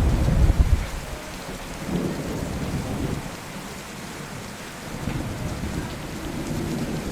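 Steady rain with rolling thunder: a low rumble loudest in the first second that dies away, then builds again near the end.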